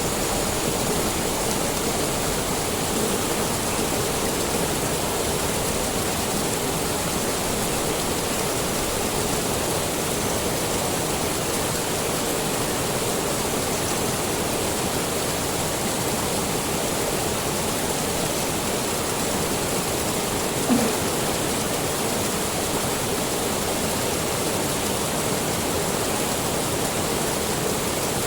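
Steady rushing of a waterfall and river water. One brief knock about two-thirds of the way through.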